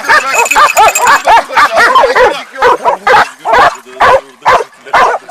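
Several hunting dogs barking rapidly and without a break, about three barks a second, baying over a wild boar that has just been shot.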